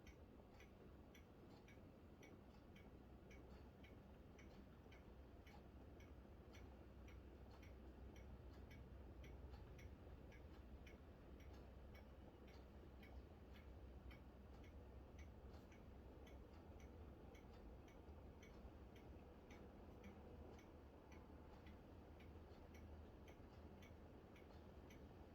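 Faint, even ticking, about one and a half ticks a second, over a quiet low background noise.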